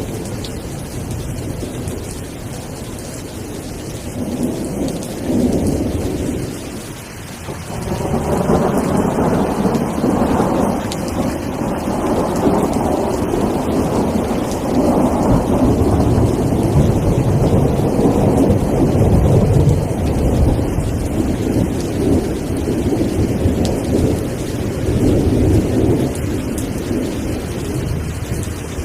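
Steady rain falling with rolling thunder. A rumble eases off about a quarter of the way in, then a long, heavy roll of thunder builds and carries on for most of the rest.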